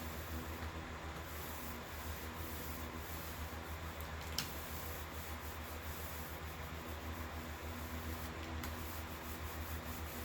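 Thin foam roller rubbing back and forth over resin-wetted fiberglass cloth, working out air bubbles. A single sharp click comes about four seconds in, over a steady low hum.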